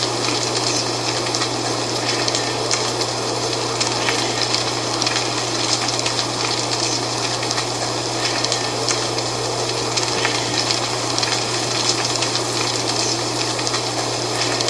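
Dry fall leaves rustling steadily in the wind, a dense crackling hiss full of small ticks, with a steady low hum underneath.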